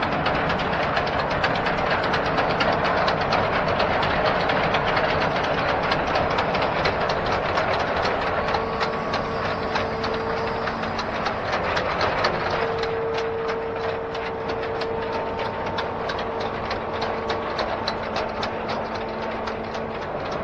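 Hitachi Zaxis 210F amphibious excavator travelling on its pontoon tracks: the diesel engine runs steadily under a rapid, continuous clanking of the track chains. A faint steady tone comes and goes in the second half.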